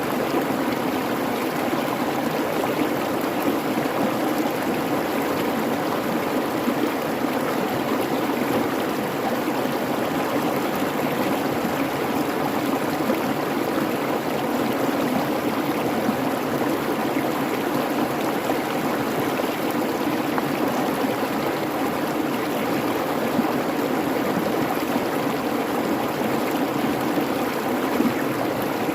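Creek water babbling and rushing over rocks, a steady, unbroken flow.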